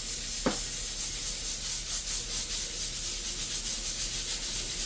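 Dry rubbing and shaking as seasoning is sprinkled onto and worked into raw chicken pieces, over a steady hiss. A single small knock comes about half a second in.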